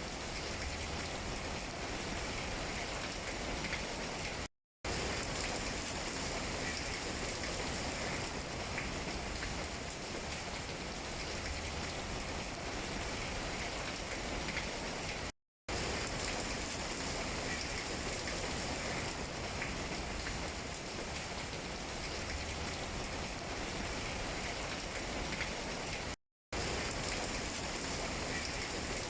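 Steady rain falling on tree leaves, a dense hiss with faint scattered drop taps. The sound drops out completely for a fraction of a second three times, about every eleven seconds.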